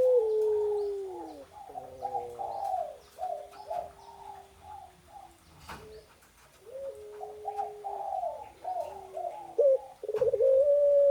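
A female bird calling for her mate in a long, drawn, melodious call. A held note that falls at its end is followed by runs of quick warbling notes, and a new long held note begins about ten seconds in. A single sharp click sounds near the middle.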